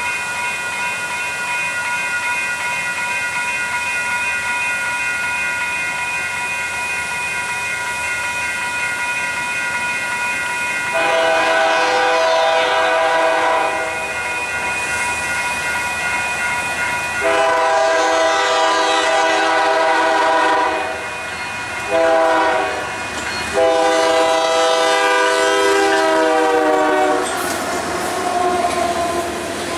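Diesel locomotive air horn sounding the grade-crossing signal: two long blasts, a short one and a long one, its pitch sliding down as the locomotive passes. For the first part a fainter steady chord of several notes holds beneath.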